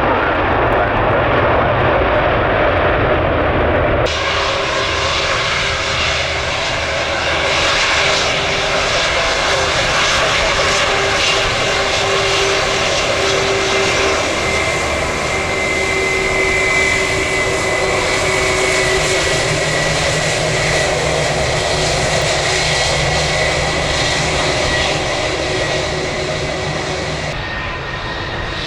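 Jet airliner's engines running loud, a continuous roar with a high whine that slowly drops in pitch. The sound turns fuller and brighter about four seconds in and eases off near the end.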